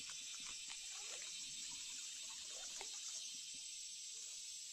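Steady high-pitched outdoor hiss, with a few faint short chirps or ticks scattered through it.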